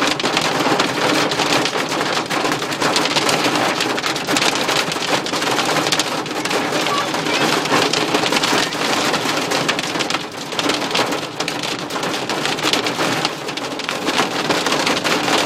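Hailstones pelting a car's roof and windows in a heavy storm, a dense, steady clatter of countless small impacts, heard from inside the car.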